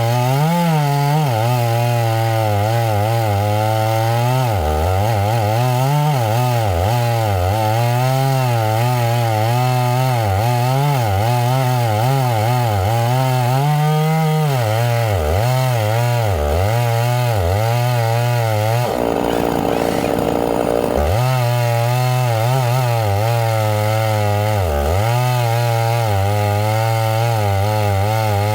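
Two-stroke chainsaw running under load, cutting into pine, its engine pitch wavering up and down as the chain bites and eases in the wood. For about two seconds near two-thirds of the way through, the sound briefly changes before the steady cutting resumes.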